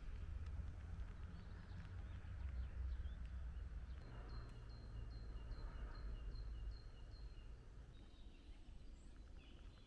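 A songbird singing a run of about ten quick, evenly repeated notes, roughly four a second, over a low steady rumble that fades out after about seven seconds.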